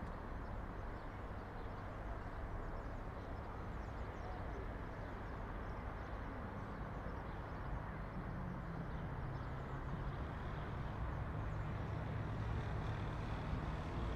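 City street ambience: steady road traffic noise, with a vehicle's engine hum building in the second half and growing louder toward the end.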